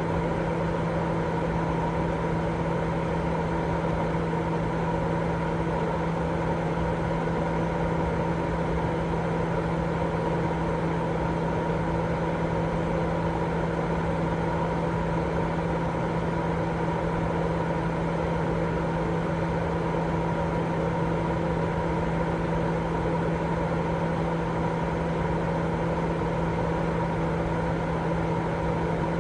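Continuous sleep-aid white noise: a steady, even rushing hiss weighted toward the low and middle range, with a faint steady hum running under it and no change at all.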